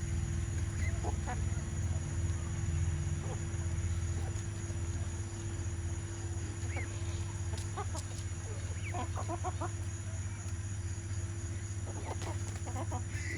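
Domestic chickens clucking in short calls, with quick runs of clucks about two-thirds of the way in and again near the end, over a steady low hum.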